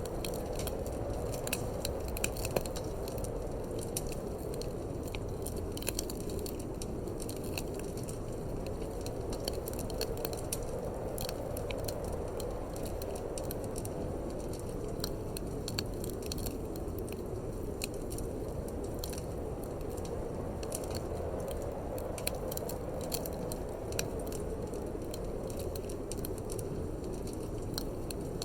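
Wood fire crackling and popping with many sharp snaps, over a steady low rush of wind that swells and eases slowly.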